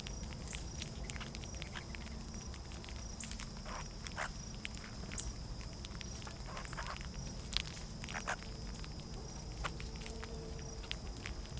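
Outdoor feeder ambience: scattered light clicks and taps, over a steady high insect trill that pulses about twice a second, and a low hum.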